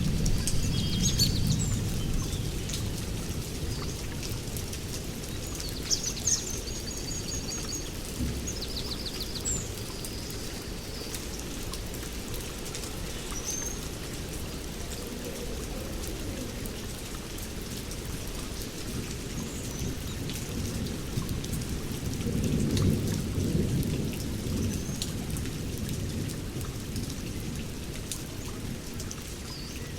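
Steady rain with low rolls of thunder, one fading in the first few seconds and another swelling about two-thirds of the way through. Birds chirp in short calls over the rain, mostly in the first third.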